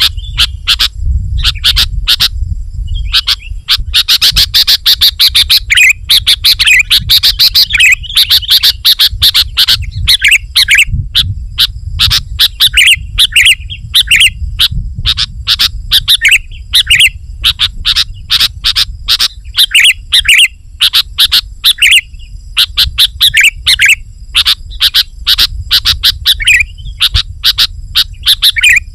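Sooty-headed bulbul singing rapidly and without pause, a dense run of sharp chirps and short curving whistled notes.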